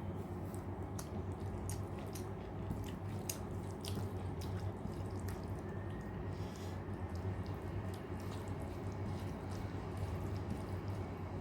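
Close-up eating sounds of rice and dal: wet chewing, squishing and mouth smacks, with many short sharp clicks, over a steady low hum.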